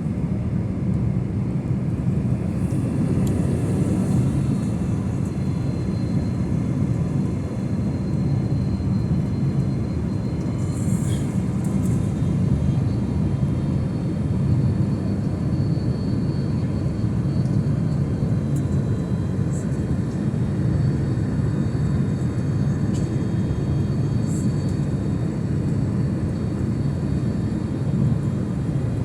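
Jet airliner noise on its landing approach: a steady low rumble that holds at an even level without rising or fading.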